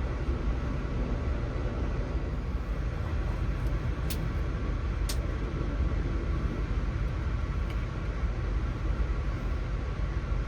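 Amtrak passenger train in motion, a steady low rumble of wheels on the track, with two brief sharp ticks about a second apart near the middle.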